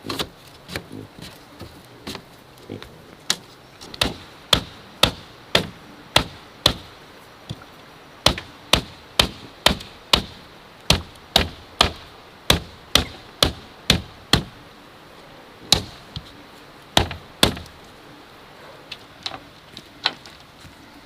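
Sharp chopping strikes on bamboo, coming in runs of about two a second with short pauses, sparser near the start and end.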